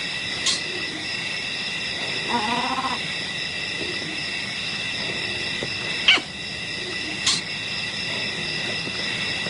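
Wild bush ambience: a steady chorus of high, insect-like tones, with a short pitched animal call about two and a half seconds in and a few sharp clicks.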